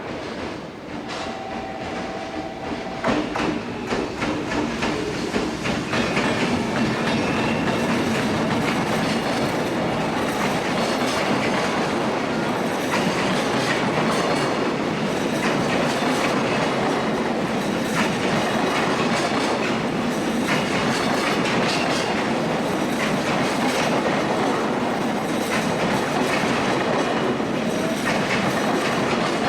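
Long freight train passing through a station: it grows louder over the first few seconds, then holds a steady rush of wagon wheels clattering over the rail joints.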